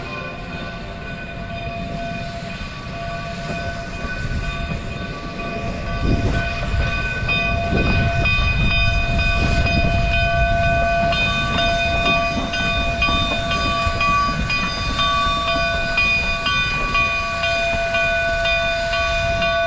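Steam locomotive whistle sounding a long, steady chord of several notes. About six seconds in, a low rumble from the locomotive rises under it. From about eleven seconds in, a high bell-like ding repeats about twice a second.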